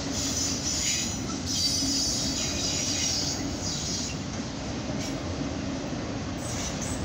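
Autorack freight cars rolling past at speed: a steady rumble of steel wheels on rail, with a high-pitched wheel squeal rising over it in the first few seconds and fading in and out later.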